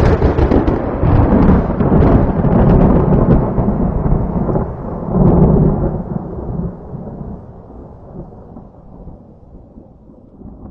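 A close thunderclap: it bursts in suddenly with sharp crackling, swells again about five seconds in, then dies away in a long, low rolling rumble.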